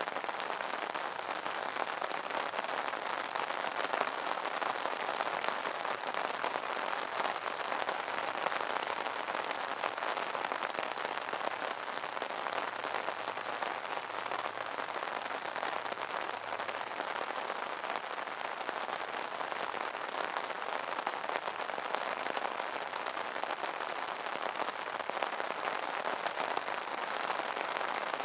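Steady rain pattering on an umbrella canopy, a dense even patter of drops with no letup.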